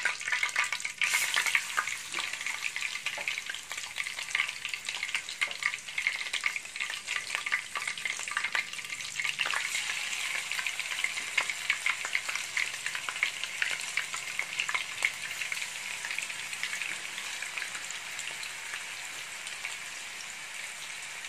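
Marinated chicken breast sizzling and crackling in hot oil and melted butter in a wok, flaring loudest about a second in as the pieces go into the pan, then frying on steadily with a dense spatter of small pops.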